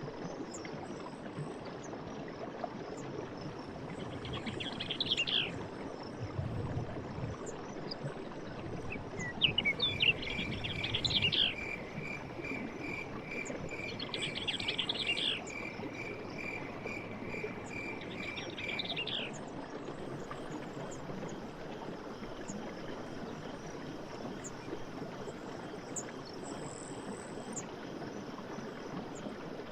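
Forest ambience: a bird sings in short chirpy phrases four times, over a steady hiss and faint insect chirring. A rapid, even pulsing trill runs through the middle stretch.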